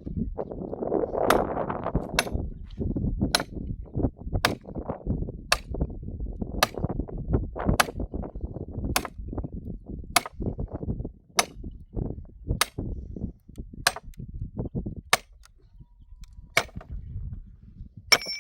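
Sharp striking knocks repeating at a steady pace of about one a second, with duller thumps between them, and a brief ringing strike at the very end.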